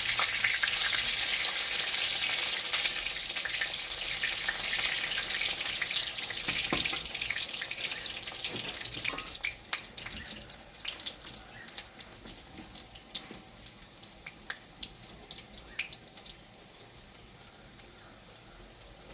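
Batter-coated water spinach (kalam saga) pakoras frying in hot oil. A loud hissing sizzle fades over several seconds into scattered pops and crackles as the frying calms.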